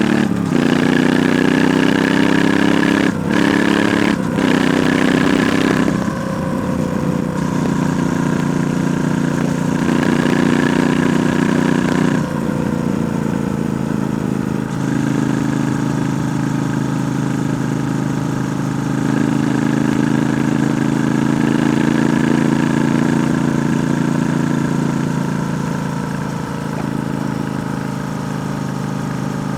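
Triumph Bonneville T120's 1200 cc parallel-twin engine running through its stock exhaust while riding. The engine note is steady, with two brief dips about three and four seconds in and a few shifts in pitch and level later on.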